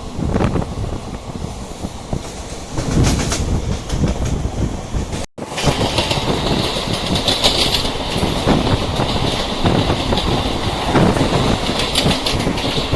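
Train running on the rails, wheel noise with irregular clattering over the track. The sound drops out for a moment about five seconds in, then comes back with an added steady high hiss.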